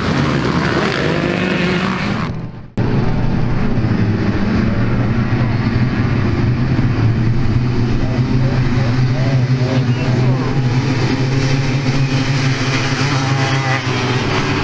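Small 50cc dirt bike engines running and revving, their pitch rising and falling. The sound fades and cuts off sharply about three seconds in, then the engines carry on steadily in a new shot.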